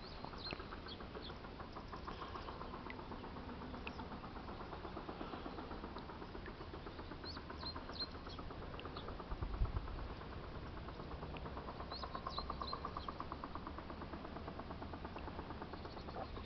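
Birds calling: short high chirps scattered throughout, with longer runs of fast repeated trilling notes, and a single low thump about ten seconds in.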